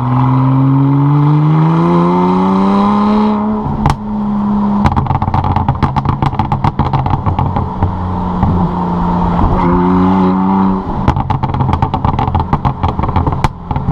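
BMW 135i's N54 twin-turbo straight-six running through a Berk race axleback, Berk midpipes and AR Design downpipes. It revs up with a rising pitch for about three seconds, then gives a sharp crack. After that it comes off throttle with a steady rapid crackle of exhaust pops, rises briefly again around ten seconds in, and crackles on to the end.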